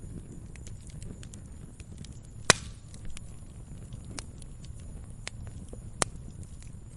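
Wood fire crackling in a fireplace: a steady low rumble of the flames with scattered sharp pops, the loudest about two and a half seconds in and another near six seconds.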